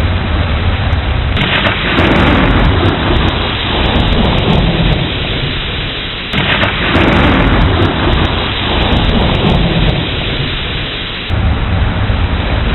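Thunderstorm: steady heavy rain with rolling thunder, a new rumble starting suddenly about every five seconds and dying away before the next.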